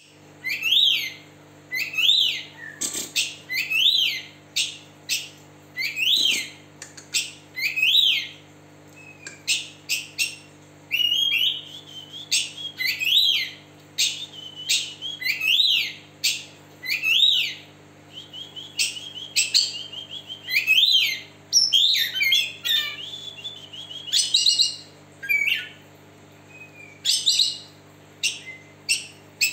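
Oriental magpie-robin (kacer) singing: a loud whistled note that rises and falls, repeated every second or two, mixed with short buzzy trills and sharp clicks.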